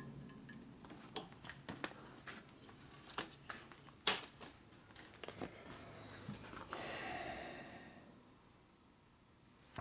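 Metal parts and tools being handled on a shop bench: scattered light clicks and knocks, with one louder knock about four seconds in and a short noisy rush around seven seconds.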